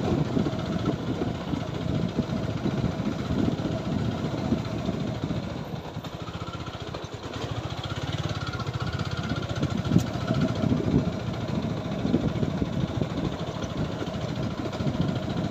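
TVS Apache 4V motorcycle's single-cylinder engine running at low speed on a badly broken dirt track, a steady low throb that eases off briefly about six seconds in.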